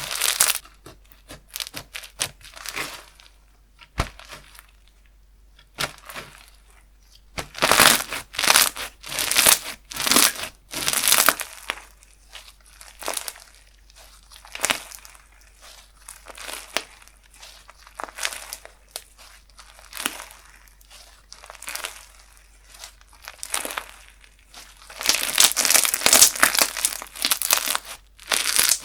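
Handmade slime being squeezed, stretched and pressed between the fingers, making irregular crackling, clicking and squishing sounds. The sounds come in bursts with quiet gaps, busiest about a third of the way in and again near the end.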